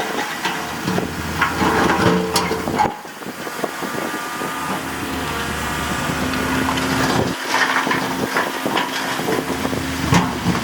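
Diesel engines of heavy earthmoving machinery, a bulldozer and dump trucks, running steadily under load, with scattered knocks and clatter. The sound changes abruptly about three seconds in and again past seven seconds.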